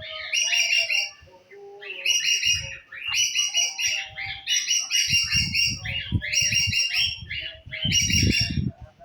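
A songbird singing the same chirping phrase over and over, about seven times, each phrase roughly a second long with short gaps between. From about halfway through, a low rumbling noise runs underneath the song.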